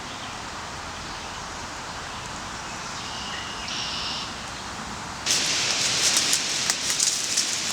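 Kayak paddling: water splashing and dripping off the paddle, with small clicks, starting suddenly and louder about five seconds in, over a steady outdoor hiss.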